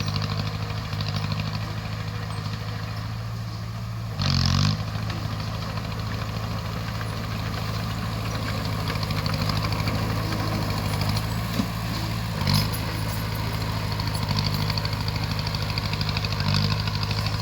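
Crawler bulldozer's diesel engine running steadily, with a short louder burst about four seconds in and a sharp knock followed by another brief burst past the middle.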